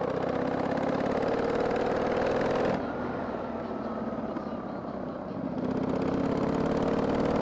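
Harley-Davidson Sportster 883's air-cooled V-twin engine pulling with its pitch rising, dropping off abruptly about three seconds in, then rising again from a little past halfway as it accelerates once more.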